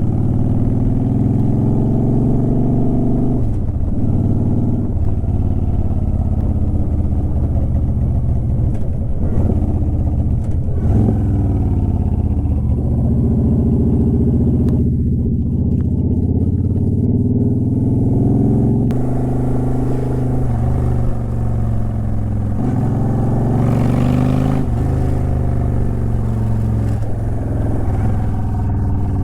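2009 Honda Shadow Aero 750's V-twin engine and exhaust under way. The pitch climbs and then drops sharply several times as the bike accelerates and shifts gears.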